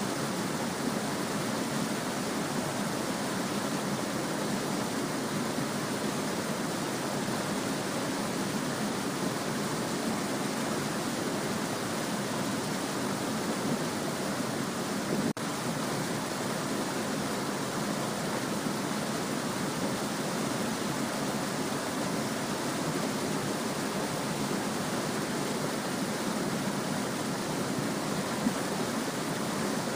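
A small stream babbling steadily over stones, an even rushing of water, with a brief click-like break about halfway through.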